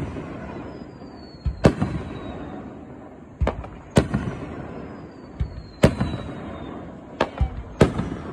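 Aerial firework shells bursting, about nine sharp bangs, several in quick pairs, each trailed by a low rumbling echo. Faint high whistles fall slowly in pitch behind them.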